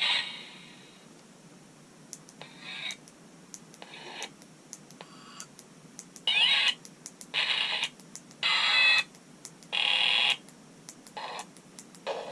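Small Halloween sound-effects box playing a string of brief snippets of its spooky sounds through its small speaker, each cut off after a fraction of a second, with small clicks between them. The bursts are loudest in the middle.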